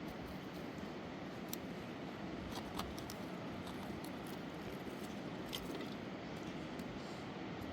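Steady rush of a fast mountain river, with a few faint clicks about a second and a half in, near three seconds and near five and a half seconds.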